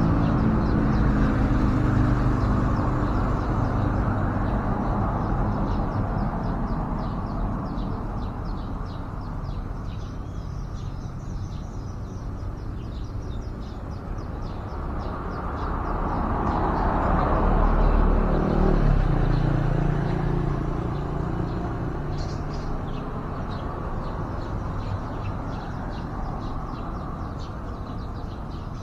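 Road traffic passing, one vehicle swelling and fading a little past the middle, with faint, rapid, high-pitched chirps of small birds over it.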